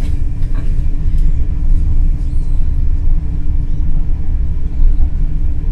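Cabin rumble of an NS Intercity New Generation electric train in motion, heard from inside the passenger carriage: a strong, steady low rumble with a steady hum above it.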